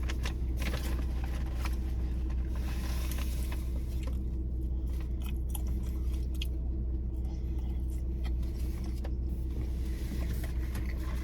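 Someone eating fast food: scattered small clicks, crackles and wrapper crinkles over a steady low rumble.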